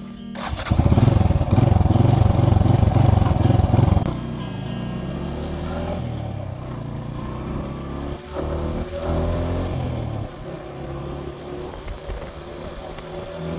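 Suzuki GN125's single-cylinder four-stroke engine running under way, heard from the rider's position; loudest in the first few seconds, then a steadier note that rises in pitch, with brief dips about eight and nine seconds in.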